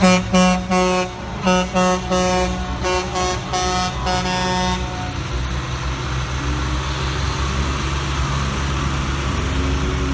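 A truck's air horn honks a run of short and long blasts for about five seconds, then stops. Under it, the steady low rumble of heavy truck engines carries on.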